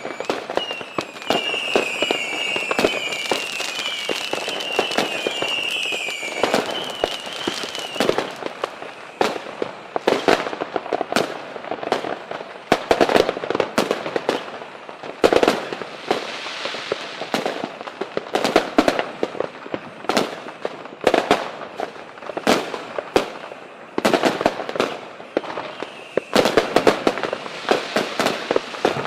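Fireworks going off: a dense run of sharp firecracker bangs and crackling that keeps going. For the first eight seconds or so a high whistle repeatedly slides downward over it.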